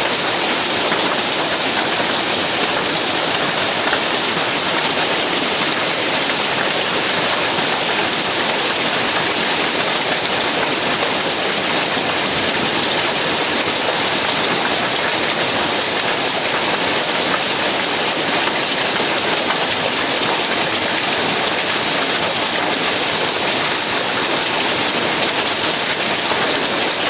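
Heavy rain falling steadily: an even, unbroken hiss at a constant level.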